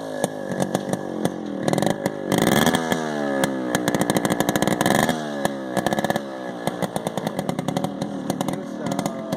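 Yamaha RX135 two-stroke single-cylinder engine revved repeatedly through its new muffler/expansion chamber, the pitch climbing and falling several times over a rapid, crackly two-stroke beat.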